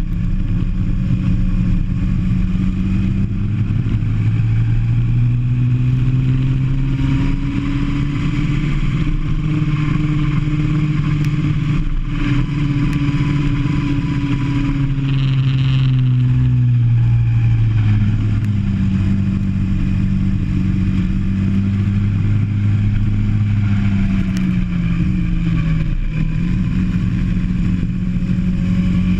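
Kart engine heard onboard, its note climbing as it accelerates, holding, then dropping as it slows, and doing so again over the second half.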